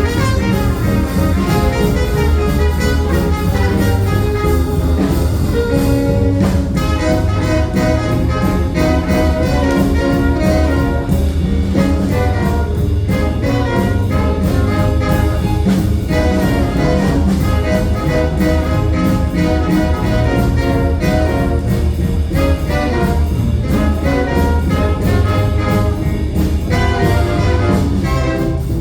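A jazz band playing live, with a full ensemble sound that runs on without a break.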